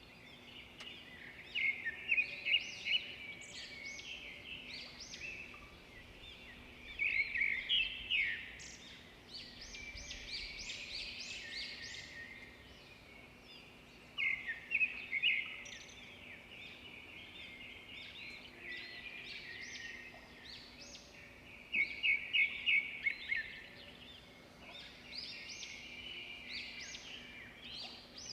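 Birds singing and chirping, with loud bursts of fast, repeated chirps every several seconds and quieter calls between them.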